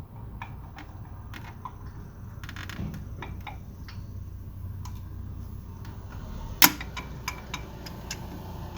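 Scattered light metal clicks and clinks of pliers working a metal hose clamp, with one sharp, louder click about six and a half seconds in, over a low steady hum.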